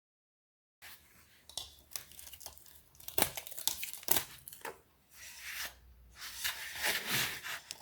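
Irregular scratchy rubbing and rustling strokes, with a few sharp clicks, starting about a second in and pausing briefly twice.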